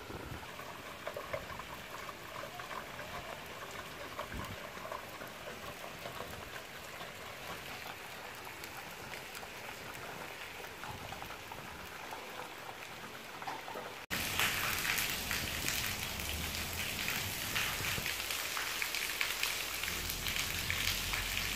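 Heavy rain falling steadily. About two-thirds of the way through it cuts abruptly to a louder, denser rain sound.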